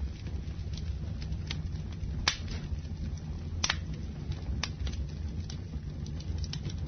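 Campfire burning with a low steady rumble and irregular sharp crackles and pops, the loudest about two seconds in.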